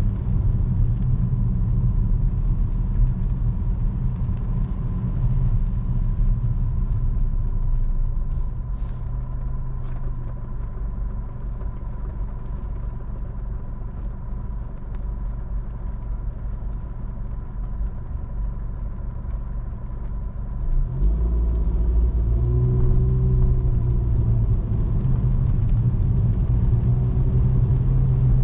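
Car driving on city streets: a steady low engine and road rumble. It eases off for a while, then grows louder with a rising engine note about two-thirds of the way in as the car pulls away. A faint steady whine runs underneath.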